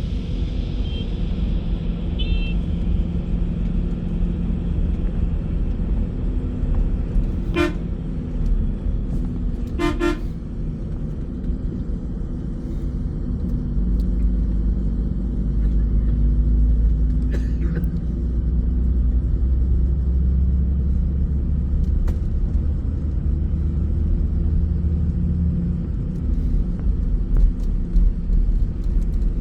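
Steady low rumble of a bus on the road. A vehicle horn honks twice, about two seconds apart, roughly a third of the way in.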